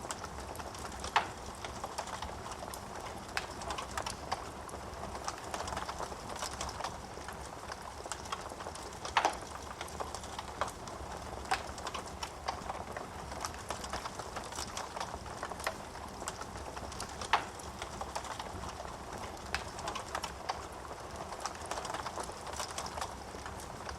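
Wood fire burning in a fireplace: a steady soft hiss of flames with frequent small crackles of burning wood and a few sharper pops, the loudest about a second in, twice in the middle and once near the end.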